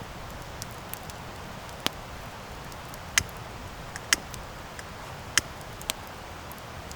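Wood campfire crackling: a steady low hiss broken by sharp pops and snaps from the burning wood, about five loud ones and several fainter ticks at irregular intervals.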